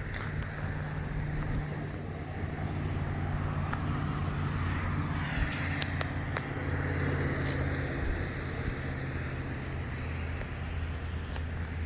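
Car driving along a road: steady low engine hum under tyre and wind noise, with a few sharp clicks about halfway through.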